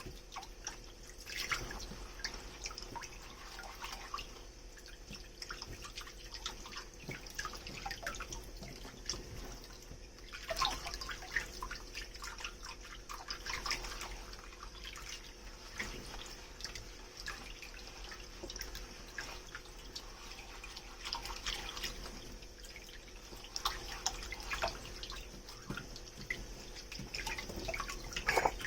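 Water dripping and trickling in a kitchen sink during hand dishwashing, with scattered small knocks and a few louder splashes.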